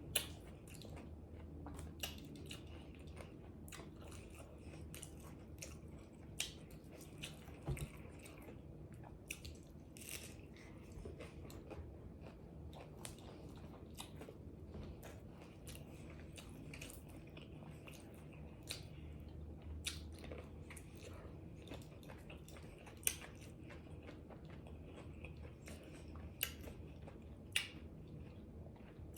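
A person chewing and biting into crunchy pizza tacos in small round taco shells, close to the microphone, with sharp crunches every second or few.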